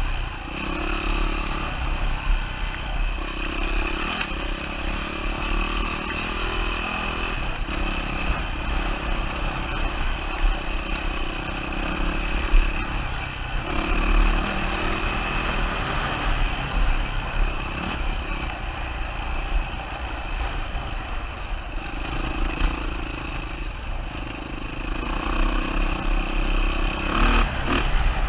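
2007 Yamaha WR450's single-cylinder four-stroke engine running under a rider on a rough trail, its note coming and going in stretches of a few seconds as the throttle opens and closes. A few sharp knocks near the end.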